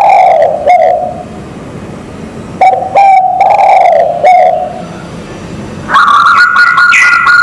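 A zebra dove (perkutut) and a spotted dove (tekukur) cooing in turn, answering each other. Low cooing phrases of a few notes come at the start and again about three seconds in. A higher, steadier call joins about six seconds in.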